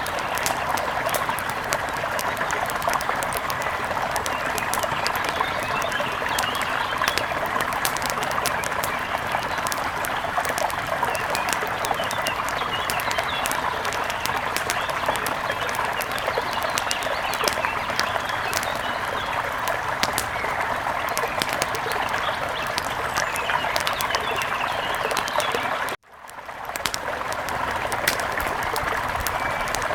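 Mountain river water rushing and splashing steadily, with bird chirps over it. The sound cuts out abruptly about four seconds before the end and fades straight back in.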